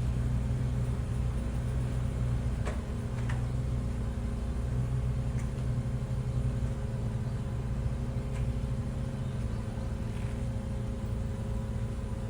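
Ferry Kurushima's diesel engines running: a steady low rumble with a constant hum and a few faint ticks.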